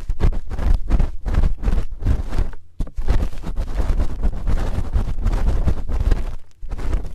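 Close-miked ASMR ear-cleaning sounds: scraping and rubbing right against an ear microphone in quick, irregular strokes, with a deep rumble from the contact and two brief pauses.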